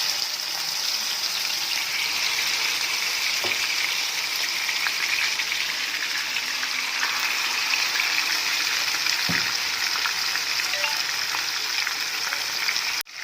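Marinated chicken pieces sizzling in hot mustard oil in a kadai, a steady dense hiss with a couple of faint knocks of the pieces going in.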